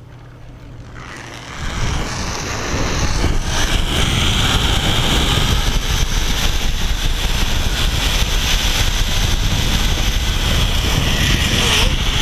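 Zipline trolley running along the steel cable, a whirring hiss that builds over the first few seconds and then holds steady, with wind rushing over the microphone.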